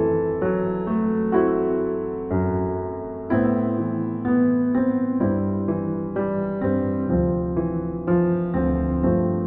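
Slow, calm solo piano music, notes and chords struck about every half second and left to ring.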